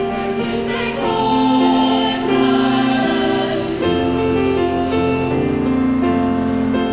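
Choir singing, with long held notes and chords that change every second or so.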